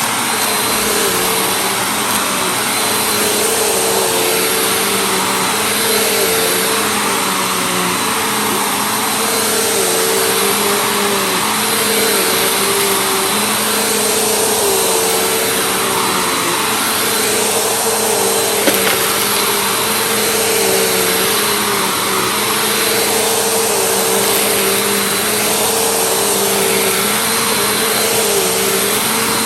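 Vacuum cleaner running steadily. Its motor tone wavers in a regular rhythm about every two seconds, and there is one brief click about two-thirds of the way through.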